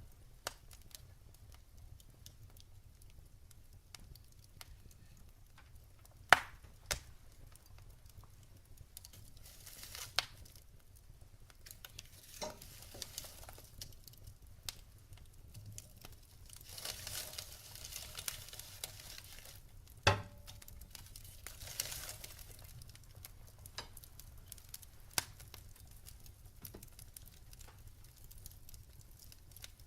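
Wood fire burning in a fireplace: logs crackling with scattered sharp pops, the loudest about six seconds in and another about twenty seconds in, and stretches of soft hissing between them.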